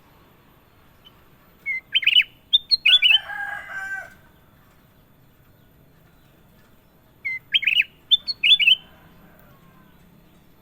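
A bulbul (kutilang) singing two short phrases of quick, fluty whistled notes, about five seconds apart. A lower, harsher call overlaps the end of the first phrase.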